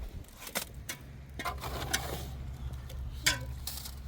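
Irregular sharp clicks, taps and light scrapes of hand work with tools and cement, with one louder knock about three seconds in, over a steady low hum.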